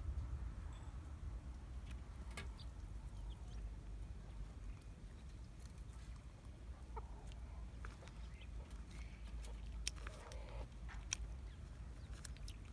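Faint clucking of poultry over a low steady rumble, with scattered short clicks and taps.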